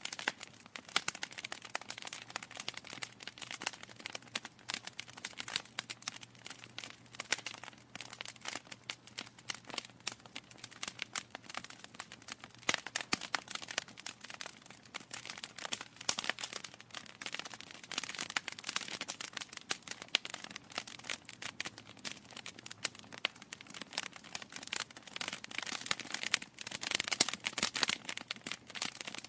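Wood logs burning in a fireplace, crackling with a dense, continuous run of small snaps and pops, which grow louder near the end.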